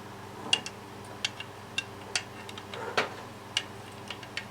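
Irregular light clicks and taps of small metal and plastic parts being handled: sockets, a metal barb connector and nylon fuel line. A low steady hum runs underneath.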